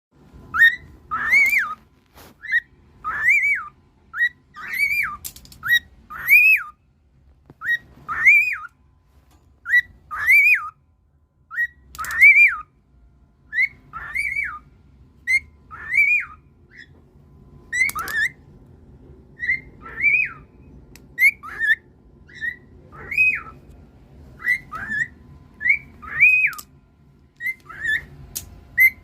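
A cockatiel whistling the same phrase over and over: a short note, then a longer whistle that rises and falls, repeated about every one and a half to two seconds.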